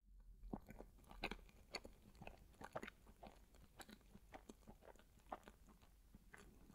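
Faint, close-miked chewing of a bite of dense, chewy matcha chocolate cake with cream: soft irregular mouth clicks, several a second.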